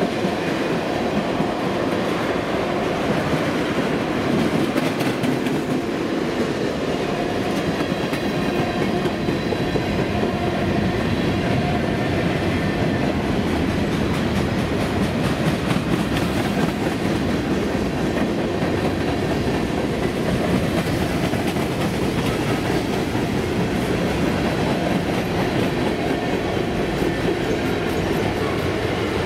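A freight train of tank cars, flatcars and covered hoppers rolling past at speed: the steady sound of steel wheels running over the rails.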